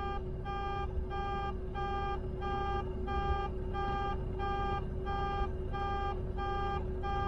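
Vehicle backup alarm beeping steadily at about one and a half beeps a second, over a low idling engine rumble.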